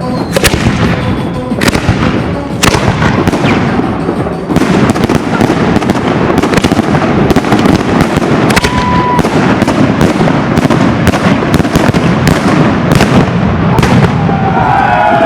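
Fireworks going off in a rapid, continuous barrage: many sharp bangs and crackling reports in quick succession, growing denser about four seconds in.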